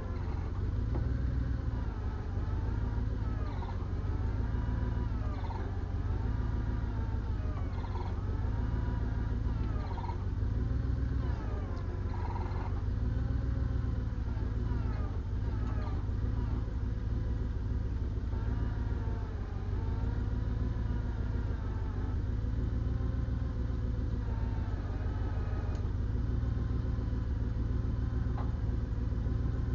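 Large diesel engine running steadily with a deep rumble, with a whine that rises and falls every second or two.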